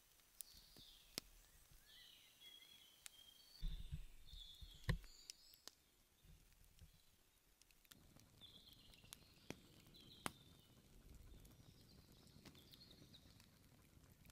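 Near silence with faint, scattered high bird chirps, a few small sharp clicks, and soft knocks about four and five seconds in.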